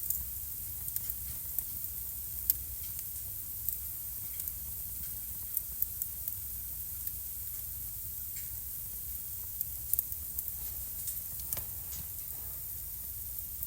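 Wood fire burning in a home fireplace, crackling: irregular sharp pops and snaps over a steady hiss and low rumble of the flames.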